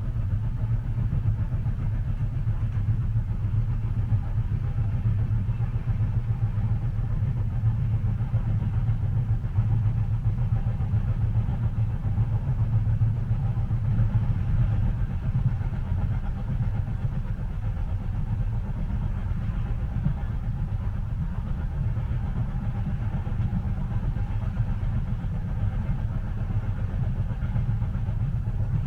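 Steady low rumble of a passenger train cabin in motion, an even drone with a faint hiss above it.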